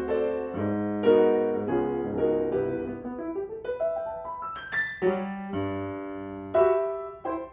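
Solo piano music: sustained, decaying chords, with a quick rising run of notes in the middle, then more chords struck.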